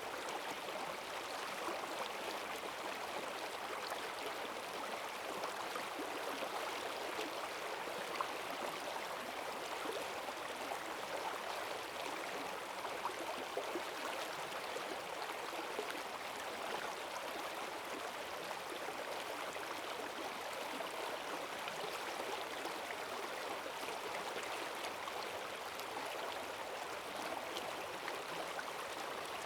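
Rain-swollen forest stream rushing over rocks: a steady, even rush of water with a fine splashing texture.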